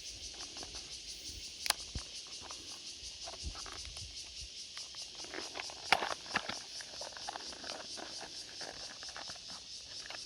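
Insects chirring steadily in a fast, even pulse, with a few sharp clicks and knocks; the loudest click comes about six seconds in.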